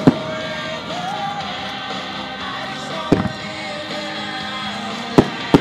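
Music starmine: aerial firework shells bursting in time with a music track played over loudspeakers. Sharp bursts come just after the start, about three seconds in, and twice near the end, over the steady music.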